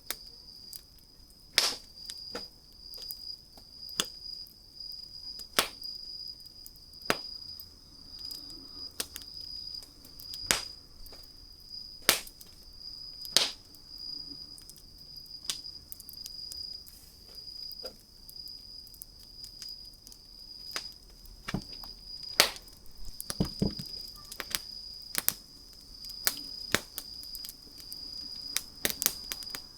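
Wood campfire crackling: irregular sharp pops and snaps, sometimes several in quick succession, over a steady high-pitched trill.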